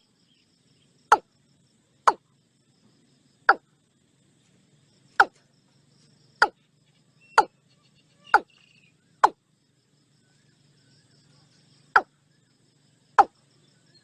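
Watercock calling: a series of short, sharp single notes, about one a second, with a pause of a few seconds about two-thirds of the way through.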